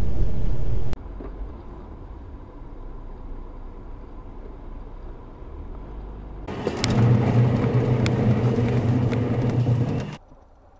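Car engine and road noise from dashcam recordings, changing abruptly at cuts between clips: a loud low rumble cut off about a second in, a quieter stretch, then a louder steady engine hum with a few sharp knocks from about six and a half to ten seconds in.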